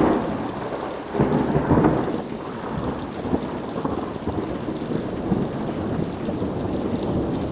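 Steady rain falling, with a sharp burst of thunder at the start and a second rumble of thunder about a second in.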